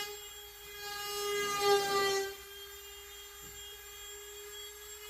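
A small motor running with a steady whine. It swells louder from about a second in, then drops back to a steady level a little after two seconds.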